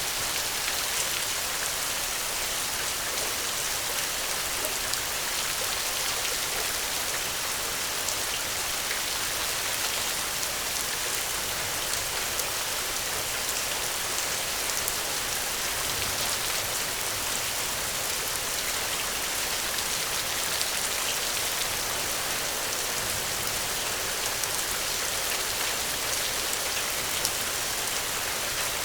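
Steady rain falling: an even, dense hiss of drops with faint individual drop ticks, unchanging throughout.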